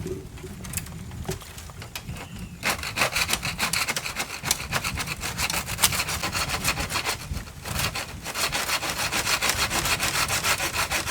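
Small handsaw sawing through a bamboo culm in quick back-and-forth strokes. The sawing starts a few seconds in, stops briefly about two-thirds of the way through, then carries on.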